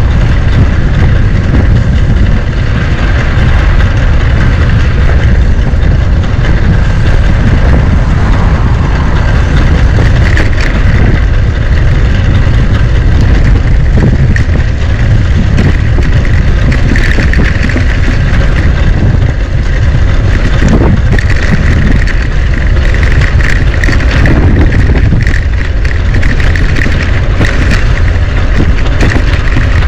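Loud, steady wind rumble on the microphone while riding a bicycle, with the air buffeting the mic throughout.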